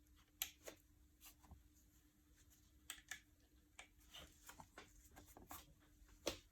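Faint, irregular clicks and light taps, a dozen or so, as small parts are handled.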